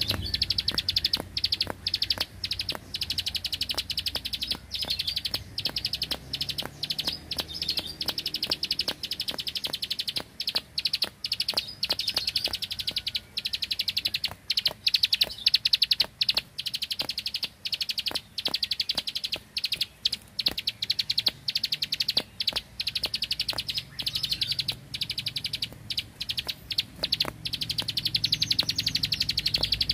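Prinia singing a long, very rapid high-pitched trill in the machine-gun 'ngebren' style, broken by many brief pauses.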